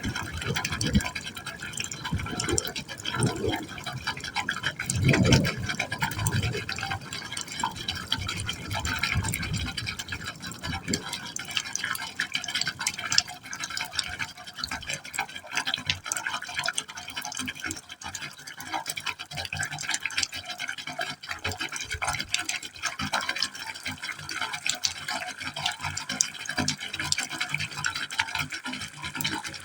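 Water falling into a pipe hole, splashing and trickling continuously with many small splashes. Through roughly the first third it also gurgles deeply in swells, which then die away, leaving the lighter splashing.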